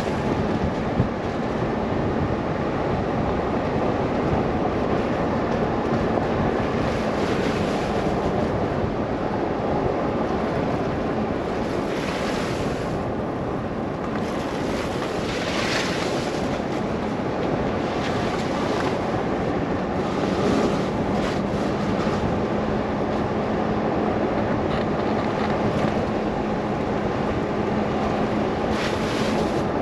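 Steady rushing blizzard wind and driving noise with a faint low hum underneath, and several brief hissing surges along the way.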